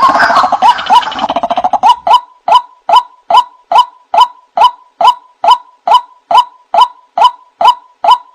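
White-breasted waterhen (ruak-ruak) calls played as a bird lure. For about two seconds there is a busy tangle of overlapping calls ending in a fast rattle. Then single calls repeat evenly, about two a second.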